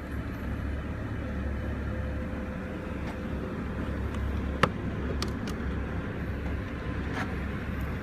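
Steady low vehicle rumble with a faint thin hum, broken by a few light clicks, the sharpest about four and a half seconds in.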